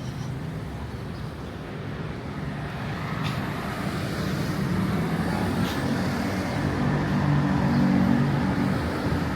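Road traffic rumbling steadily, with one vehicle's engine drone growing louder as it passes close, loudest about eight seconds in. A few faint clicks sound over it.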